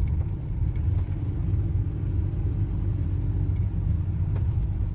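Car driving on a hill road, a steady low rumble of engine and road noise as heard inside the cabin, with a faint hum through the middle.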